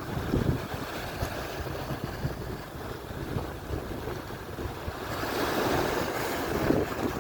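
Atlantic surf washing onto the shore, swelling louder as a wave comes in about five seconds in, with wind buffeting the microphone.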